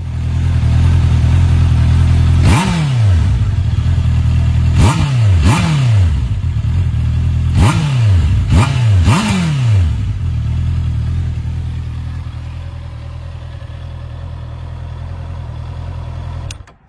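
Honda CB650R inline-four on its stock exhaust, idling with six quick throttle blips in the first ten seconds. Each blip jumps up and falls back to idle. It then idles more quietly and cuts off abruptly near the end.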